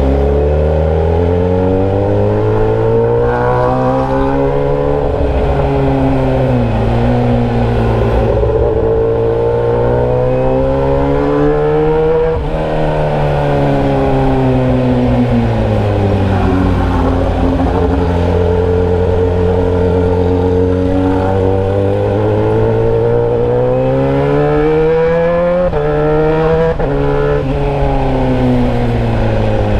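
Motorcycle engine running through a bare open pipe with the muffler removed, loud and raw. The revs climb and fall repeatedly, with sudden drops at the gear changes, about twelve seconds in and twice near the end.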